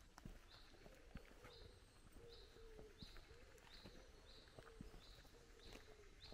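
Faint woodland ambience: a small bird repeats the same short, high call about every two-thirds of a second, over soft, irregular footsteps on a dirt path.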